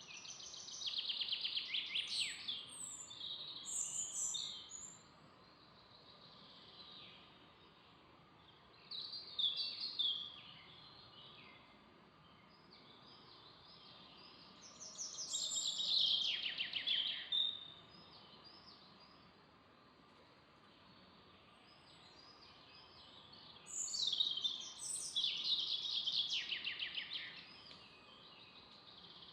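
Songbirds singing in bursts of rapid trilling song, the notes falling in pitch, each phrase lasting a few seconds with pauses between, over a faint steady background hiss.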